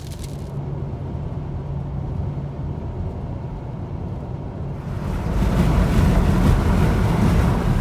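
Strong wind buffeting the microphone over a low rumble, swelling into a louder rush about five seconds in that lasts about three seconds.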